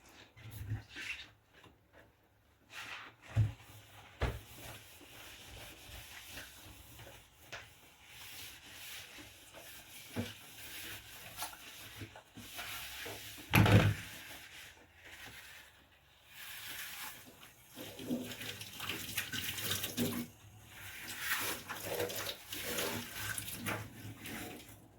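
Dishes being hand-washed at a sink: water noise, scrubbing and scattered clinks and knocks of dishes, with one loud knock about halfway through.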